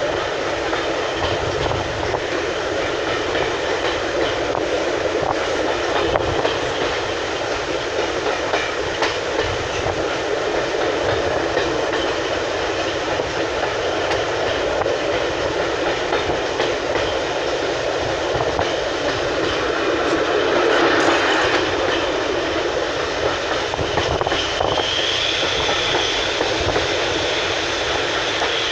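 Steady rumble and rattle of a railway passenger coach running along the track, heard from on board. A thin, high steady squeal comes in during the last few seconds.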